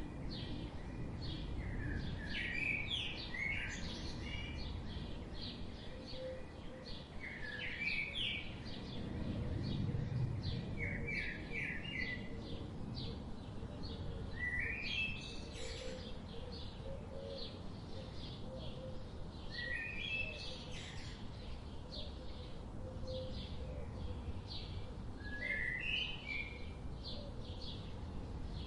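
Forest birds chirping: short rising-and-falling song phrases repeat every few seconds among many quick high chirps, over a steady low background rumble.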